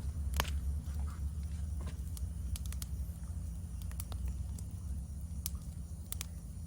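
Wood fire crackling in a fire-pit stand, with sharp irregular pops and snaps a few times a second over a low steady rumble. A steady high insect trill runs underneath.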